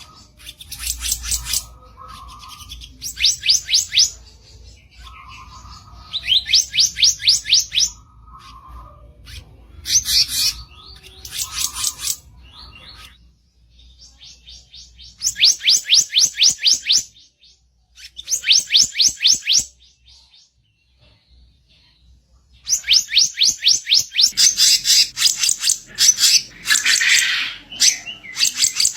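Kicap ranting songbird giving its harsh, rough chattering song: bursts of rapid, evenly repeated scratchy notes, each a second or two long with short pauses between, running almost without a break near the end.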